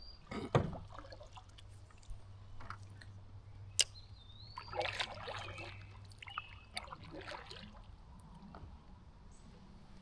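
Water sloshing and trickling around a small boat as it moves off across a pond, with a few sharp knocks, the loudest about four seconds in, and two short rising chirps.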